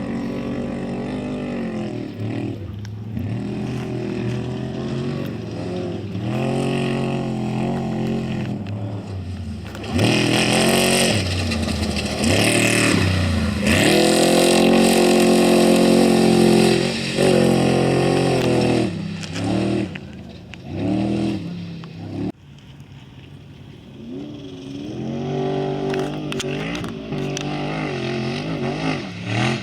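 Off-road race vehicles' engines revving hard as they run past, the pitch rising and falling with gear changes and throttle. The engines are loudest in the middle, go quiet for a moment a little after two-thirds through, then build again as another approaches near the end.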